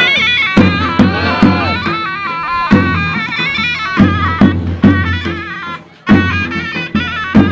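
Turkish folk dance music: a reedy wind instrument plays a stepping melody over regular drum strokes. The music dips briefly just before six seconds in and comes back in on a strong drum beat.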